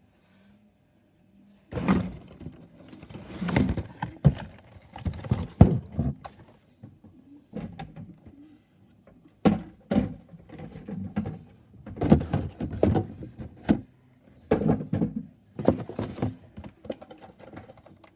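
Irregular bursts of clattering knocks and thunks, starting about two seconds in, from rubbish being handled in a garbage truck hopper.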